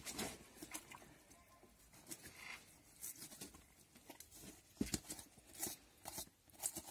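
Faint, scattered scrapes and clicks of knife work on a pig carcass, cutting through skin and fat.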